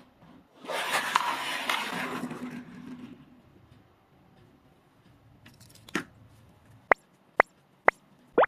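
Crackling, crunching burst lasting about two seconds as a mystery egg's shell is broken open, then a few sharp clicks near the end.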